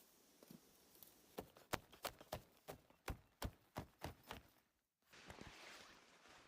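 Footsteps on a forest trail, quick crunching steps at about three to four a second, stopping abruptly just before the last second and a half, after which a soft even hiss remains.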